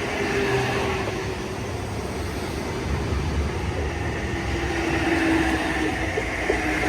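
Mariyung electric multiple-unit train running through the station, a continuous rumble and rush of wheels on rail with a faint motor whine that slowly falls in pitch.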